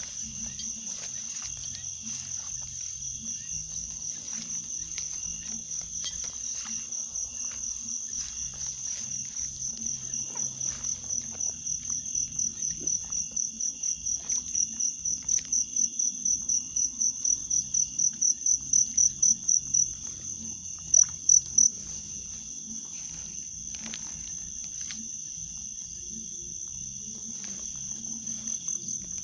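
Night insect chorus: a steady high-pitched cricket trill, with one close insect chirping in rapid pulses that grow louder until about two-thirds through, stop, and end with three last loud pulses.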